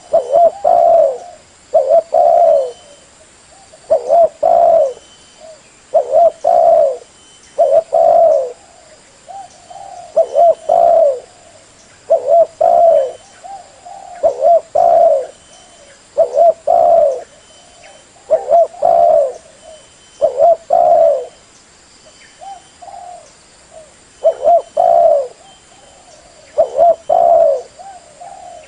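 Spotted dove (tekukur) cooing: a short phrase of two or three low coos, repeated about every two seconds, the call used to lure other spotted doves.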